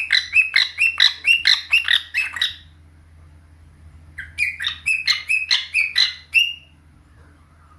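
A pet bird chirping in quick, evenly spaced notes, about four a second, in two runs with a short pause between them.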